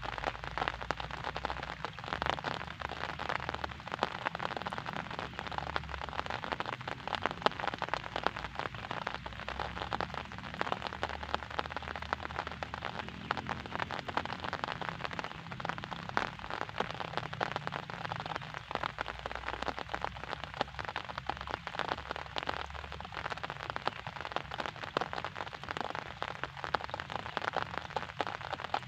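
Steady rain, countless drops striking a surface in a dense, even patter.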